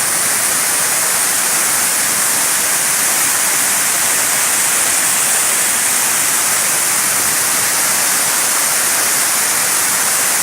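Waterfall: a steady, loud rush of falling water, hissy and even, without a break.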